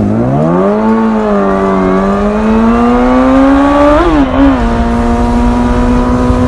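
Motorcycle engine accelerating as it pulls away, its pitch rising over the first four seconds, with a brief jump in pitch about four seconds in, then holding a steady note.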